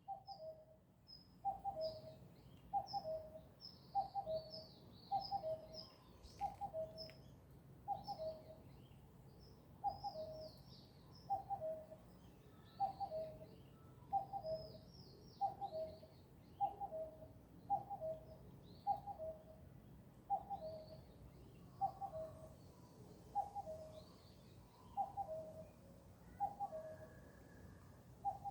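Birds singing: one bird repeats a two-note call, the second note lower than the first, about once a second, while other birds chirp at a much higher pitch, mostly in the first two-thirds.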